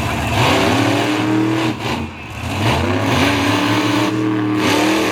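Monster truck engine revving hard, its pitch climbing, dropping away about two seconds in, then climbing again and holding high.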